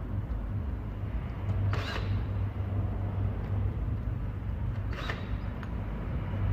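Screws being driven into a car stereo head unit's metal mounting bracket: two short whirring or scraping sounds about three seconds apart, over a steady low hum.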